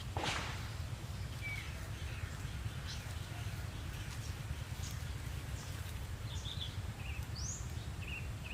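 Outdoor ambience of faint, scattered bird chirps and one short rising call near the end, over a steady low rumble. There is a brief rustle just after the start.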